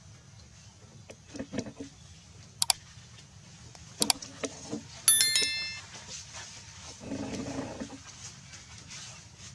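Scattered clicks and knocks, with a sharp metallic clink about five seconds in that rings for about half a second.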